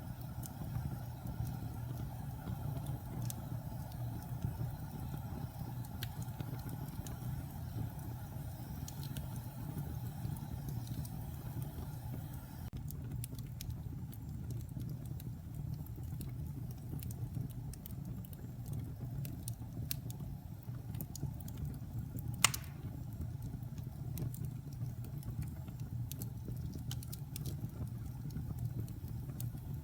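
Wood fire burning in a fireplace: a steady low rumble of the flames with sparse crackles and small pops of the burning wood, and one sharp, much louder pop about two-thirds of the way through.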